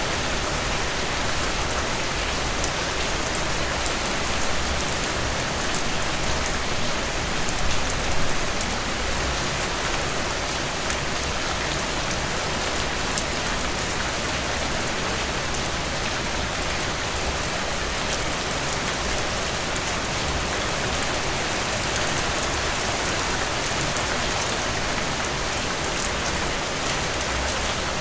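Steady rainfall, a dense even hiss with fine drop patter on surfaces, no thunder.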